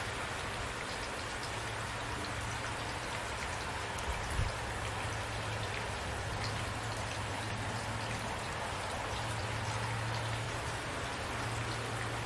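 Steady rain falling, with individual drops ticking through an even hiss. A brief low thump comes about four seconds in.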